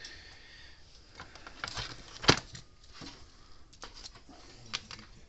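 Scattered light clicks and taps of small parts being handled on a workbench, with one sharp click about two seconds in.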